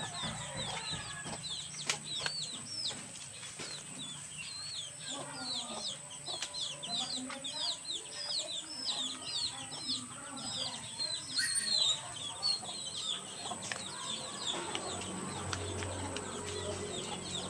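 Birds chirping: many short, high chirps, several a second, with a steady high-pitched whine behind them.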